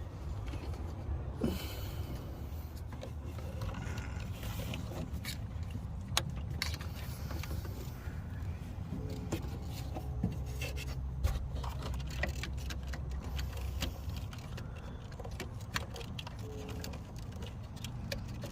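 Hands working heater hose quick-lock connectors and hose in a truck's engine bay: scattered small clicks, knocks and rattles over a steady low rumble.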